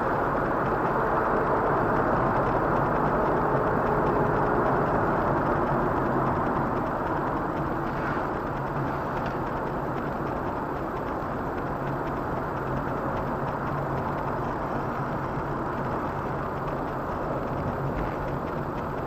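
Steady road and engine noise of a car driving, with no sudden impacts.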